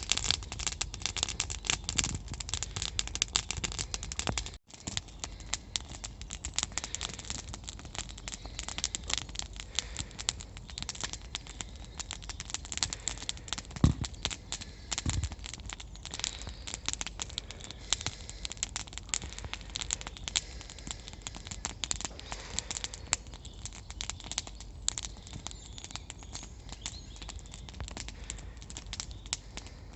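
Wood campfire crackling and snapping steadily as it burns, with two dull knocks about a second apart midway through.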